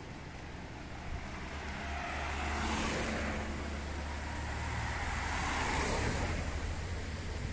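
Two vehicles passing one after the other, their engine and tyre noise swelling and fading about three seconds and six seconds in, over a steady low rumble.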